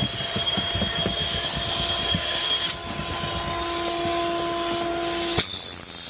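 A motorised cleaning machine running with a steady whining hum and hiss. About five seconds in there is a sharp click, and the sound changes abruptly to a mostly high hiss.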